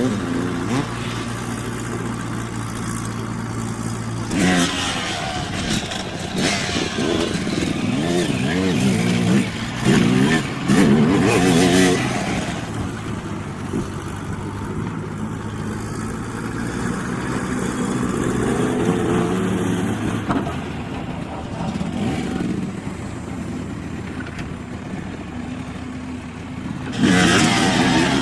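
Dirt bike engines revving up and down as bikes ride the track, with louder passes several times in the first half and again near the end, over a steady engine drone.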